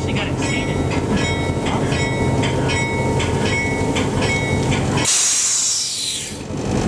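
A train running with a steady low rumble and a regular clicking about twice a second. About five seconds in the rumble cuts out and a hiss falling in pitch takes over for about a second and a half, then the rumble returns.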